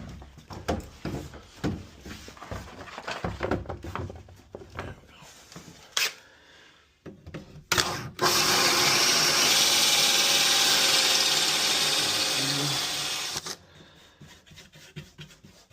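Power drill boring a lock hole through a wooden door: it runs steadily for about five seconds from roughly eight seconds in, then stops. Before that come scattered handling knocks and rustles and two short drill blips.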